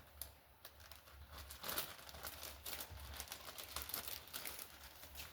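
Light, irregular crinkling and rustling with small clicks from hands handling parts and packaging on the bench, over a low steady hum.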